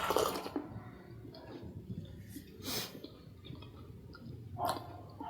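A person chewing food close to the microphone, with three short breathy bursts and faint mouth clicks.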